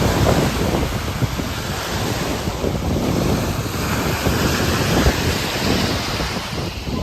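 Ocean surf breaking and washing on a beach, a steady roar of water. Strong wind buffets the microphone with a gusty low rumble.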